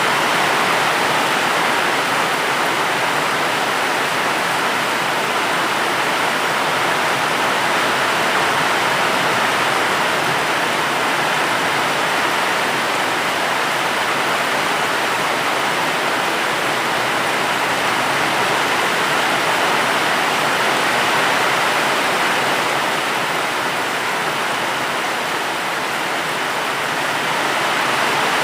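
Steady rain falling, a dense, even hiss with no single drops or thunder standing out.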